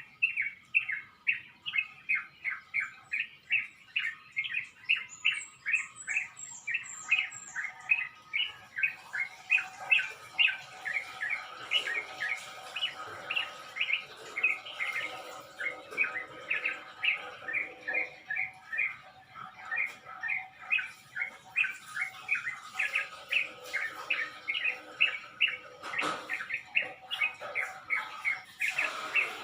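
Dawn chorus of several small birds chirping in a tree, short chirps repeated quickly and overlapping, two to three a second. A brief run of high, thin notes comes in about five seconds in, and one sharp click near the end.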